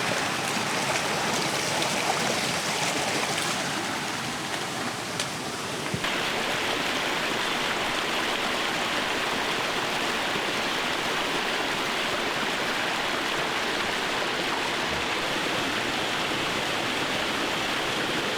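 Steady rush of a flowing mountain stream.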